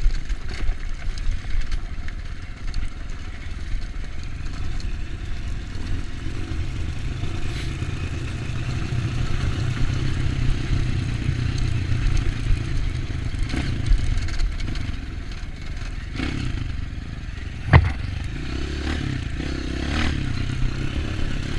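Off-road trail motorcycle engine running at low, fairly steady revs, with clatter from the bike over rough ground and one sharp loud knock late on.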